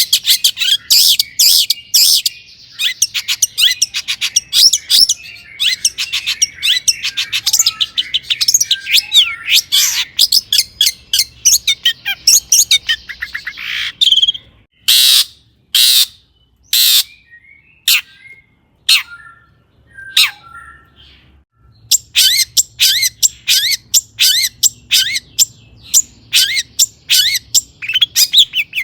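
Long-tailed shrike singing a fast, chattering song of short, sharp, varied notes. About halfway through, the chatter breaks off for several seconds, with only a few loud, harsh single notes, and then the rapid song starts again.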